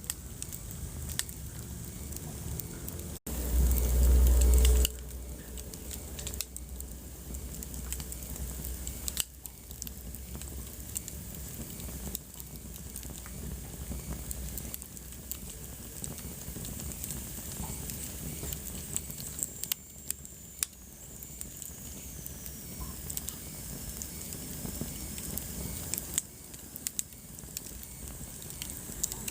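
Wood fire in a fireplace crackling and popping with irregular sharp snaps. About three seconds in, a loud low rumble lasts a second and a half. Near the middle, a faint high whistle slowly falls in pitch.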